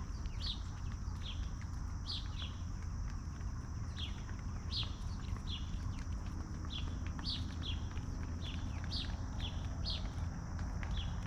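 Short, high chirps, each a quick downward sweep, repeated irregularly about once or twice a second over a steady low rumble.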